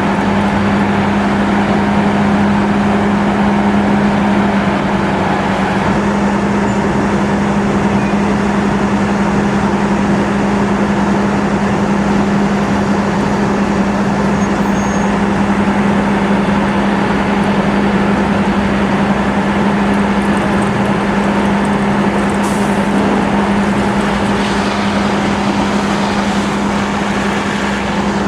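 Fire ladder truck's engine running at a steady speed, a loud continuous drone with an unchanging hum.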